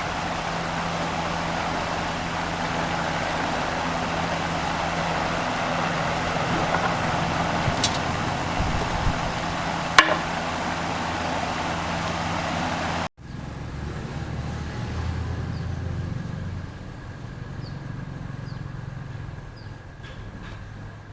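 A motor-driven machine running steadily with a constant hum, with a sharp click about ten seconds in. A little past halfway the sound cuts off abruptly and a quieter, different machine hum follows.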